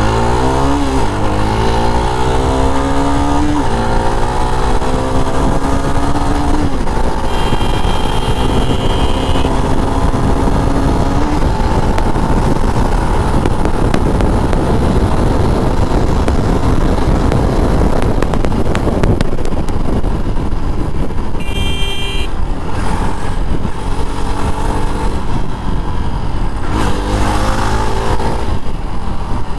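Jawa Perak's 334 cc single-cylinder engine pulling hard through the gears, its note rising in pitch and dropping at each upshift, settling into a cruise with wind rushing over the microphone, then climbing through the revs again near the end. Two brief high steady tones, like a vehicle horn, sound once in the first third and again past the middle.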